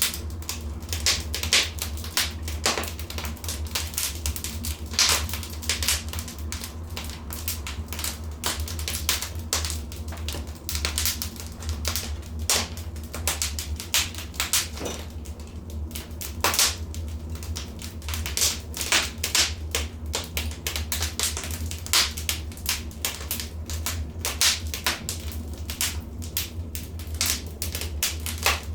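Wood fire in a fireplace crackling, with dense, irregular sharp pops and snaps over a low steady rumble.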